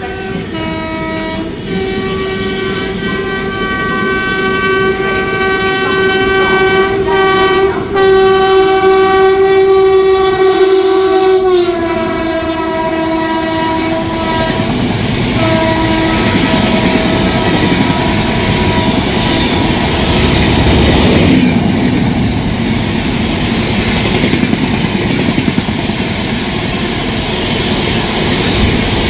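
WAP7 electric locomotive's multi-tone horn blowing long as the train runs past, its pitch dropping about eleven seconds in. The horn stops about halfway through, leaving the steady rumble and clickety-clack of the passing coaches.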